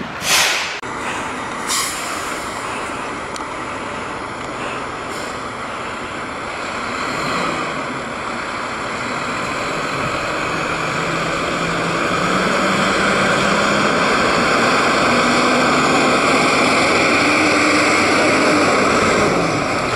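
Fire truck's air brakes hiss sharply just after the start, with a smaller hiss about two seconds in. Its diesel engine then runs and rises steadily in pitch and loudness as the truck pulls away.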